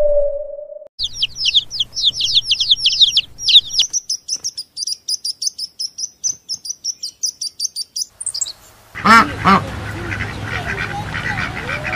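A steady tone cuts off about a second in. A small bird then twitters in fast, high, falling chirps that run into a rapid trill. About nine seconds in, a mallard starts quacking over background noise.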